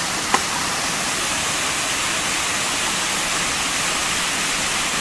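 Steady rushing of a waterfall, with one short click just after the start.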